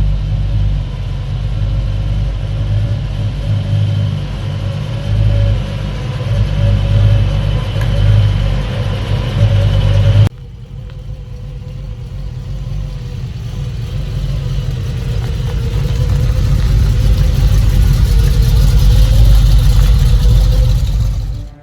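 Engine of a 1941 cab-over-engine truck running on the road. About halfway through it cuts off suddenly and comes back quieter, then grows steadily louder as the truck accelerates.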